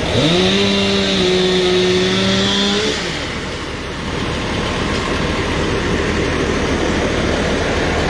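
A vehicle engine revs up, holds a steady pitch for about three seconds, then drops away, over a steady low engine rumble.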